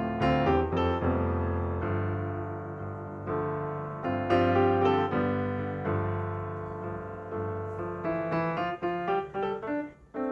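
Solo piano background music: a slow melody over held chords, with a quick run of short notes near the end.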